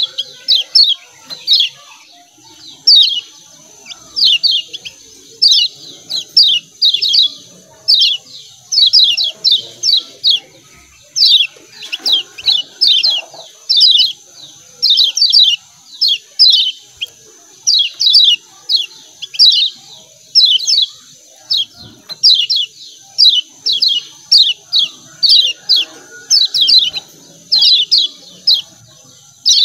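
Kecial kuning (Lombok yellow white-eye) giving its chattering 'ciak ciak' call: sharp, high, down-slurred chips in quick bursts of two to four, repeated about once a second. A faint steady high whine runs underneath.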